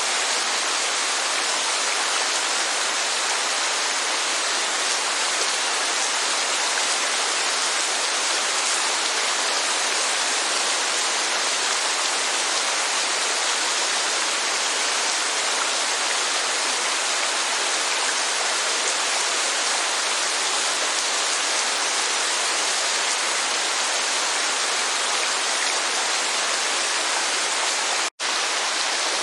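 Steady, heavy rainfall: a dense, even hiss of falling water with no change in level, interrupted by a brief dropout to silence about a second before the end.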